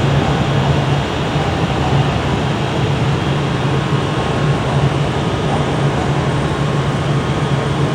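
Steady low hum and rumble of trains in a large railway station, with an even wash of noise over it and no single loud event.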